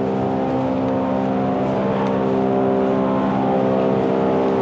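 Loud, steady mechanical drone from machinery in the subway station's ceiling: several unwavering hum tones over a rushing noise, sounding like a jet engine and super noisy.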